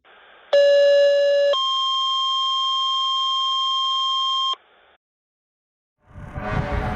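Synthetic electronic beep: one steady low tone for about a second, then a higher steady tone held for about three seconds, cutting off cleanly. After a short silence, vehicle noise swells in near the end.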